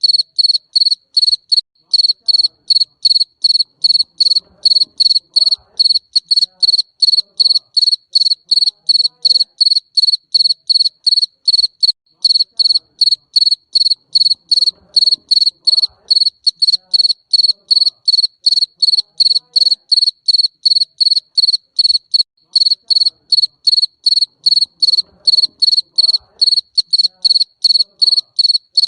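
Garden cricket chirping steadily, a high trill at about three chirps a second.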